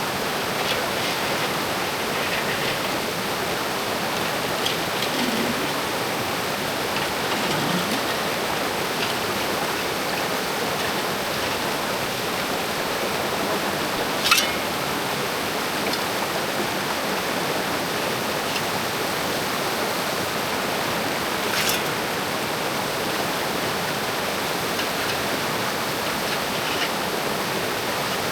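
Mountain creek water rushing steadily, with two sharp knocks, one about halfway through and another later on.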